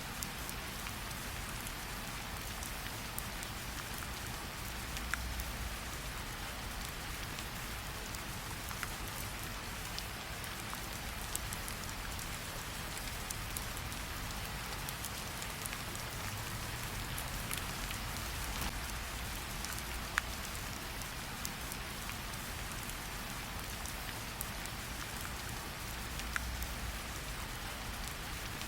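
Steady rain falling, an even hiss, mixed with a campfire crackling: scattered sharp pops every second or two.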